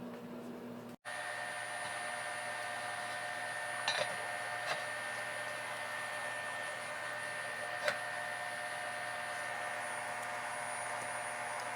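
Steady whirring of a small motor or fan with a thin high whine, broken by a few light clicks.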